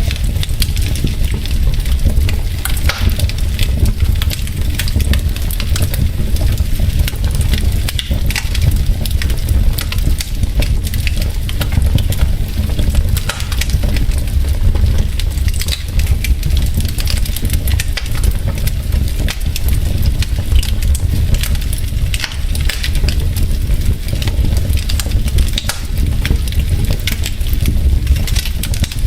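Wood fire burning in a fireplace: logs crackling and popping over a steady low rumble of the flames.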